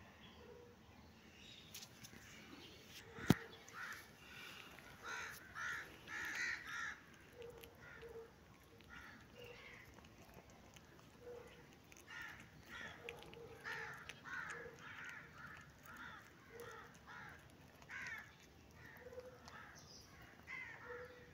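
Birds calling in the background, a run of short harsh calls repeated many times, with one sharp click about three seconds in.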